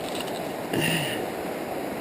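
Steady rush of river water flowing around the waders, with a short vocal sound from a person about three-quarters of a second in.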